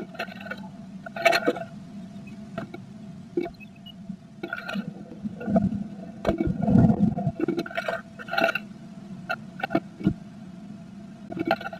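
Blue tit moving about inside a wooden nest box, giving irregular taps, knocks and scratchy rustles as it works the nesting material, with a longer rustling spell midway. A steady low electrical hum lies underneath.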